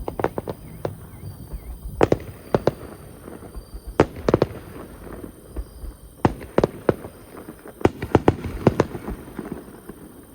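Aerial fireworks bursting: repeated sharp bangs and crackles in quick clusters every second or two.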